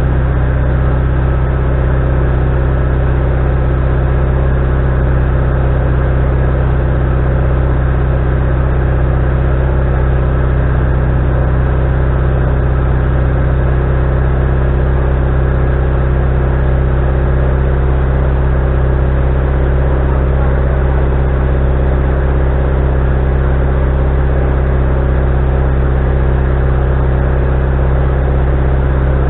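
Wood-Mizer LT40HD sawmill's engine running steadily at a constant speed, with a strong low hum.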